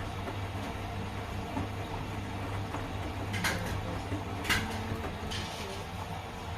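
Washing machines running mid-cycle: a steady low hum and rumble, with three short knocks about three and a half, four and a half and five and a half seconds in.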